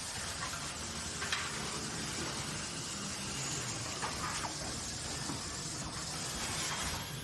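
Steady industrial machinery noise, a constant hiss over a low rumble, with a few faint clicks.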